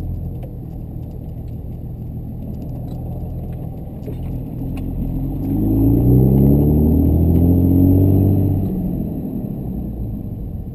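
Compound-turbocharged 5.9 Cummins inline-six diesel running as the truck drives; about four seconds in it revs up and pulls hard at higher revs for a few seconds, then eases off.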